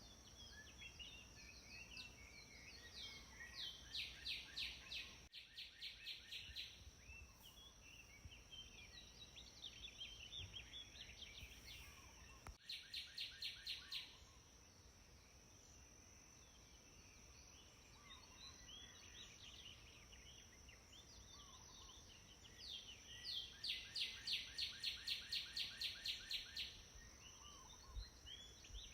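Songbirds singing in a natural outdoor soundscape: scattered chirps throughout, and three times a bird delivers a fast run of repeated high notes, about four or five a second, the longest and loudest near the end. A faint steady high tone runs underneath.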